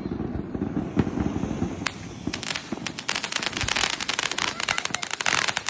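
Small consumer firework crackling: a few scattered pops at first, then from about two seconds in a dense, rapid crackle of many small bangs.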